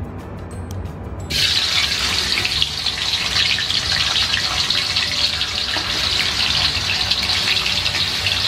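Tofu pieces deep-frying in hot oil in a wok: a sizzle starts suddenly about a second in as the tofu hits the oil, then holds as a steady, loud sizzle.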